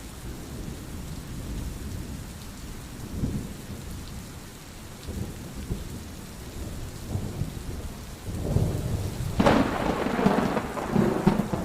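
Thunderstorm: steady rain with low rolling thunder. A louder peal of thunder builds about eight and a half seconds in and swells strongly a second later.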